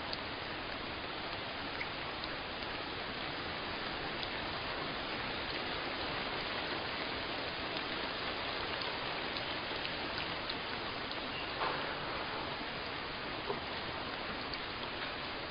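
Steady rainfall, a continuous hiss with scattered individual drops ticking on a surface; two drops land a little louder near the end.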